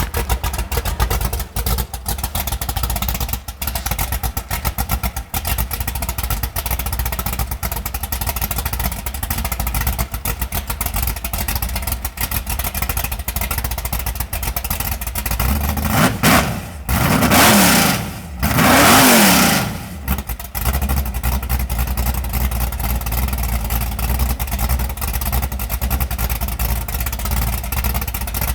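Chevrolet Monza drag car's engine idling roughly and choppily, then revved three times in quick succession about halfway through, each rev rising and falling back, before settling back to idle.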